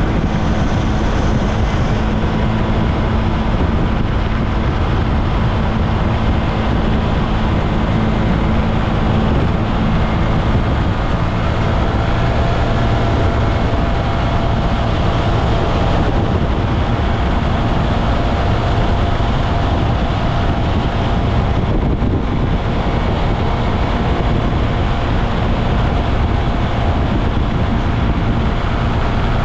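Kymco Maxsym TL 508 maxi-scooter running at speed: steady engine drone mixed with wind and tyre noise on the microphone.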